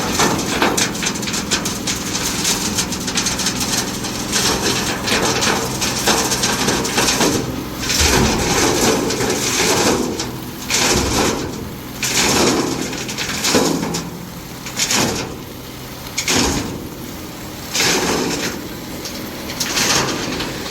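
Heavy diesel truck engine running at a steady speed, with repeated swells of rushing noise every second or two over it.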